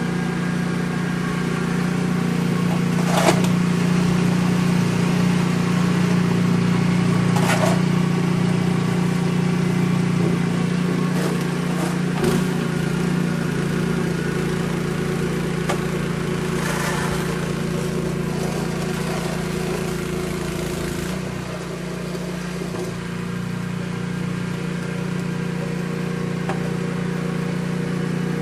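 A steady mechanical hum from a running motor or engine, with a few short sharp clicks about three, seven and twelve seconds in.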